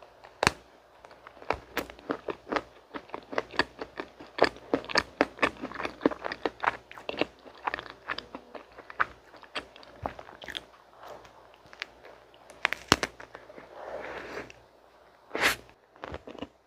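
Close-miked ASMR eating: a bite into a chocolate-topped mint-cream sponge cake about half a second in, then fast, crisp crunching and chewing. The crunching thins out after about ten seconds, leaving a few louder single clicks near the end.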